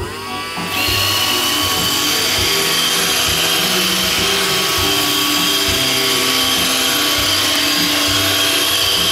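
iRobot Roomba 531 robot vacuum starting a cleaning run: its vacuum motor and brushes spin up in the first second, then run steadily with a constant high whine.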